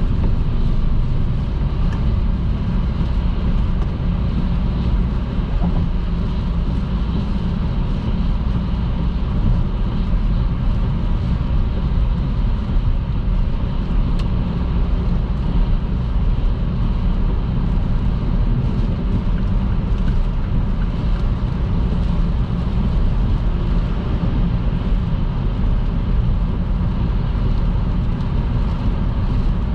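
Car travelling at highway speed on a wet road: a steady low rumble of road and engine noise with a hiss of tyres on the wet surface.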